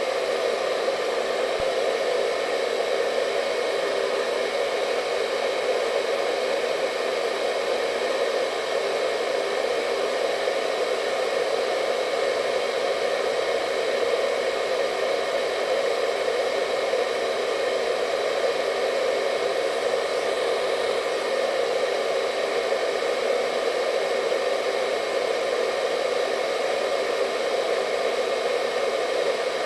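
Hair dryer running continuously: a steady, even rush of blown air with a faint motor whine.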